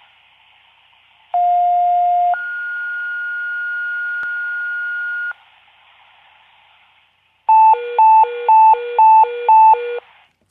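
Radio dispatch tone-out heard over a radio receiver. Over radio hiss, a two-tone sequential page plays: a lower tone for about a second, then a higher tone for about three seconds. After a short break, a hi-lo alert tone alternates between two pitches about five times, alerting the rescue squad to a call.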